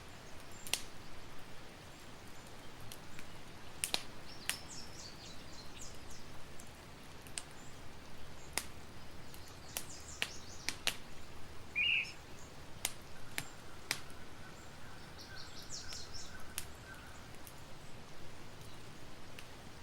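Campfire crackling, with irregular sharp pops scattered through the whole stretch. Birds chirp in short high bursts several times in the background, with one lower chirp about halfway.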